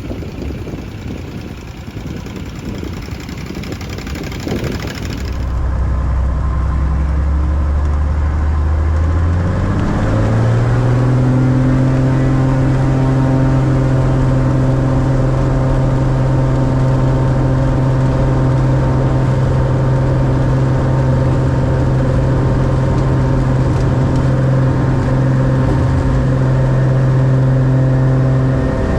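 Light airplane's piston engine, its pitch rising for a few seconds and then running steadily. Before it comes a few seconds of outdoor wind-blown noise.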